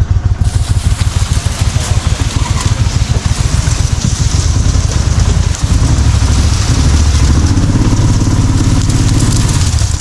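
Duck boat's motor running under way, loud, with rapid low pulsing; about six seconds in it settles into a steadier, slightly louder run.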